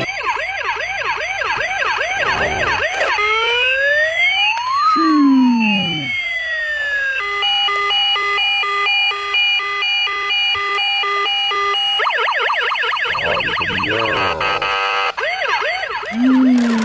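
Electronic siren and sound effects from a battery-powered toy: a fast warbling siren, then sweeping tones that rise and fall, then a stepped beeping pattern for several seconds. The warble returns near the end.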